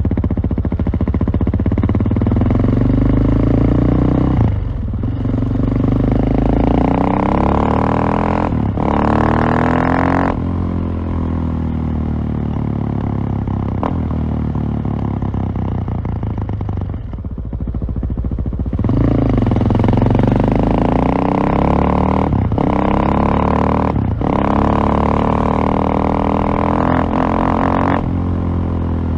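KTM LC4 620 single-cylinder four-stroke motorcycle engine accelerating hard through the gears. The pitch climbs and breaks briefly at each upshift, drops off sharply about ten seconds in, and falls away again past the middle. It then pulls up through another run of shifts.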